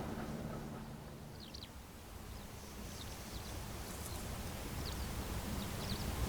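A passing train's rumble fades over the first two seconds, leaving low outdoor rumble and faint short bird chirps scattered through the rest.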